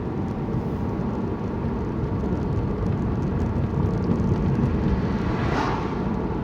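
Road and engine noise inside a moving car: a steady low rumble, with a brief higher rushing sound about five and a half seconds in.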